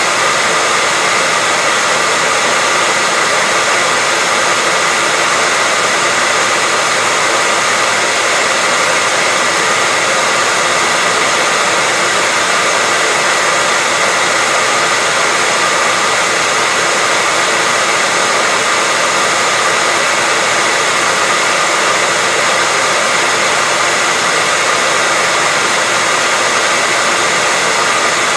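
Hairdryer running steadily: an even rushing hiss of blown air with a faint whine from the motor.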